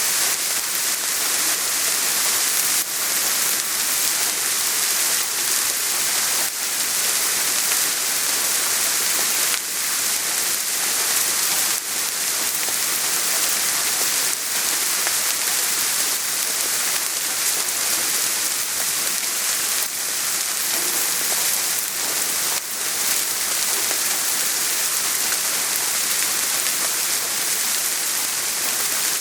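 Steady soft rain falling: an even hiss of many drops, with occasional faint individual drop ticks.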